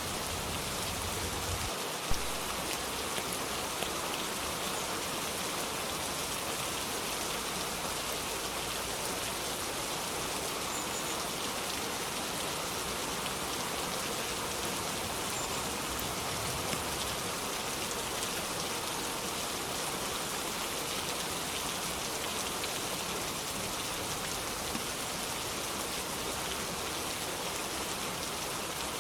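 Steady, even rainfall. About two seconds in comes one sharp tap, the loudest moment, with a few fainter ticks later.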